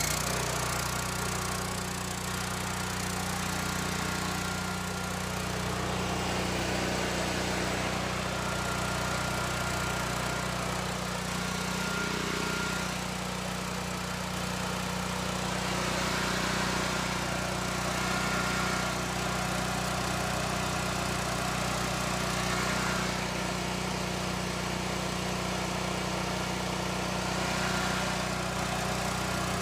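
Portable gasoline generator's engine running steadily at a constant speed.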